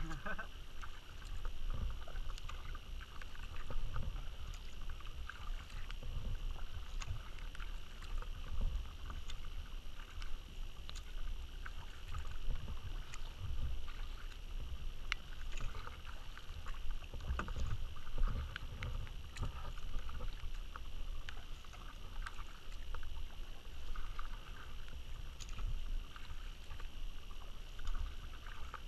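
Kayak being paddled: paddle blades dipping into the water with small splashes and drips, over a steady low rumble.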